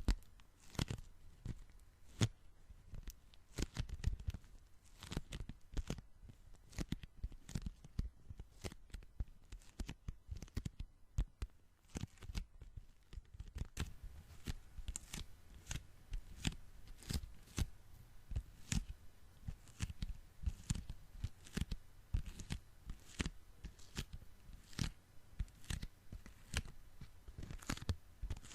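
Sticky hands and fingers pressed together and peeled apart, giving quick, irregular crackling peels several times a second, with a sparser, quieter stretch about ten seconds in.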